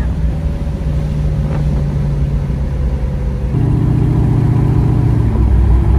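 1968 Camaro's 496 cubic-inch big-block V8 and exhaust heard from inside the cabin while cruising, a steady engine drone that steps up louder about three and a half seconds in.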